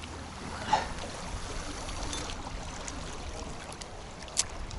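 Wind buffeting the microphone with water lapping, under a steady low rumble. A short sound comes about a second in, and a sharp click near the end.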